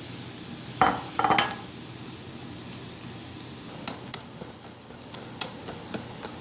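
A utensil knocking and clinking against a mixing bowl as cake batter is mixed: two louder clattering knocks about a second in, then a run of sharp taps from about four seconds in.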